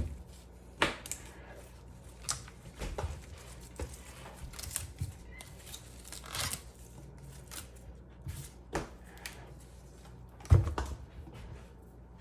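Kitchen prep sounds: scattered, irregular knocks and clicks of a knife on a cutting board as grapes are halved and celery is handled. One louder knock comes near the end.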